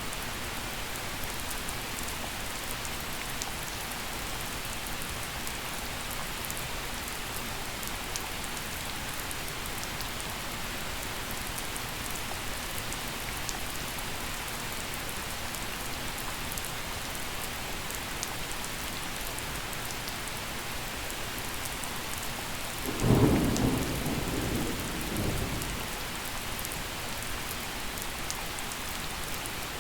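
Steady gentle rain falling, with a loud clap of thunder about two-thirds of the way through that rumbles on for a few seconds, swelling once more before it fades.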